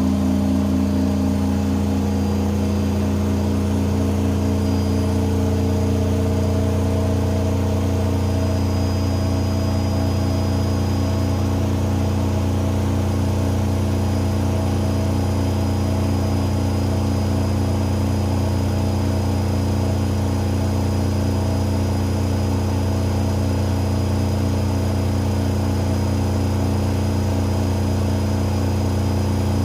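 AEG Öko-Lavamat 88840 washing machine spinning at a steady high speed, its motor and drum giving a loud, even hum with steady tones above it.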